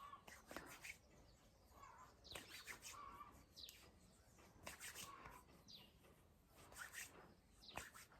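Near silence: faint room tone with a few soft, brief chirp-like sounds every second or so.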